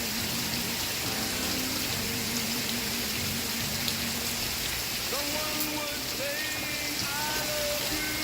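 Steady rain falling on a surface, with a slow song faintly underneath: a singer's held notes wavering with vibrato.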